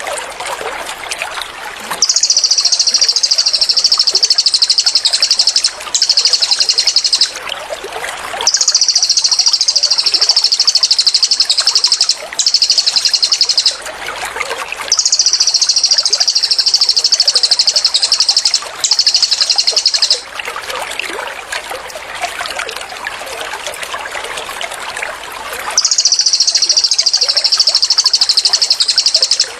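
Cililin bird's rapid, high-pitched 'tembakan' trill, delivered in bursts of one to four seconds with short gaps between them. The song breaks off for several seconds past the middle before resuming. Underneath runs a steady trickling of water.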